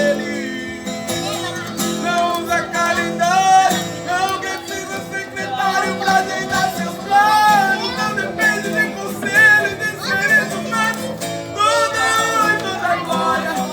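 A Christian worship song sung with guitar accompaniment.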